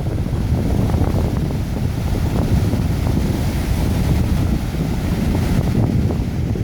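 Wind buffeting the microphone: a steady, rumbling gusty roar.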